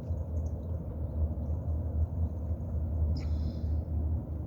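Steady low outdoor rumble, with a single short high chirp a little over three seconds in.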